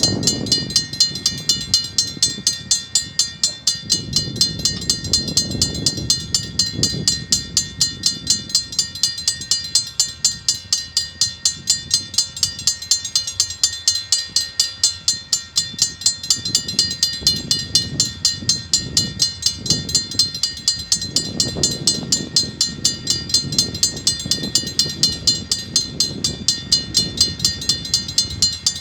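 Level crossing alarm bell ringing rapidly and steadily, several strikes a second, while a KiwiRail DSG diesel locomotive and its wagons pass with a low rumble that swells and fades.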